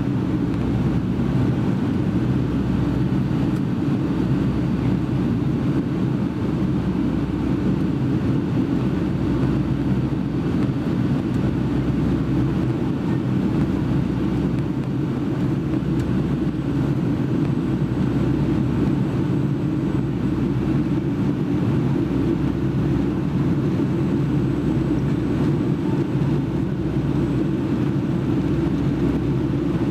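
Steady cabin noise inside a Boeing 757-200 airliner during its departure: the jet engines' low drone and the rush of air, even and unbroken.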